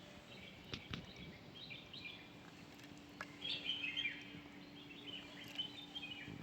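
Birds chirping in short bursts of twittering calls, loudest a little past the middle, over a faint steady hum and a few light clicks.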